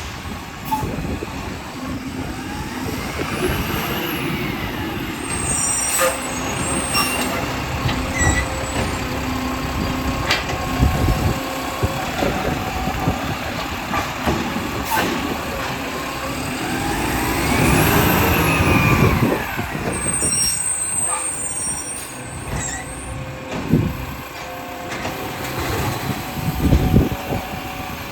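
Garbage truck working: its diesel engine runs steadily and twice revs up and back down, with short hisses of air brakes.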